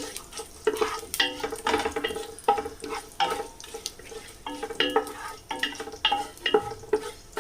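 A spoon stirring whole spices and bay leaves in hot oil in a biryani pan: about two scraping, knocking strokes a second against the pan, each leaving a short ring, over a light sizzle of the oil.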